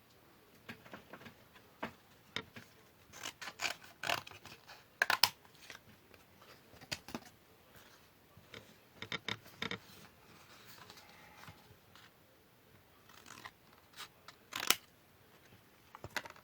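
Scissors cutting paper in short runs of snips, the loudest around five seconds in and again near fifteen seconds.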